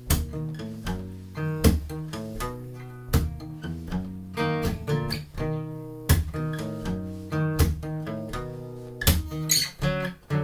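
Acoustic guitar playing the instrumental introduction, strummed and plucked chords with sharp attacks at an even pulse.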